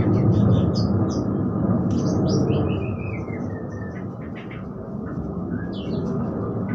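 Parakeets chirping and twittering in quick short notes, with a run of falling chirps about two and a half seconds in. A low rumbling noise sits underneath, loudest at first and fading away.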